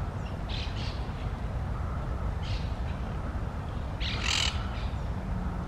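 Birds calling in a few short, harsh bursts, the loudest about four seconds in, over a steady low rumble.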